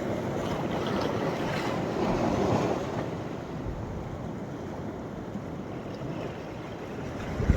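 Sea waves breaking and washing up the beach, with wind buffeting the microphone; the surf swells louder about two seconds in.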